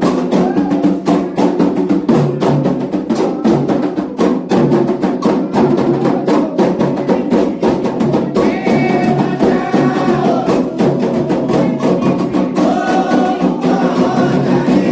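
Candomblé ritual drumming on atabaque hand drums with a struck bell, playing a fast, steady rhythm; voices singing over it from about halfway through.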